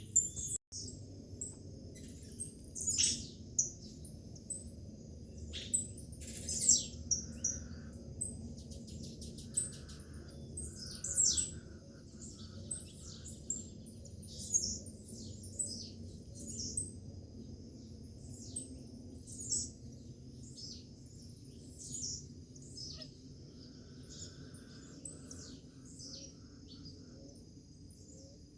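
Several birds chirping, with short, high, falling-pitched calls repeated every second or so and a rapid trill about eight seconds in. A steady thin high tone runs underneath, over a low steady background noise.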